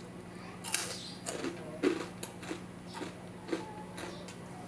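Close-up crunching and chewing of crispy fried pork rind (chicharon): a run of short, irregular crisp cracks, roughly two a second.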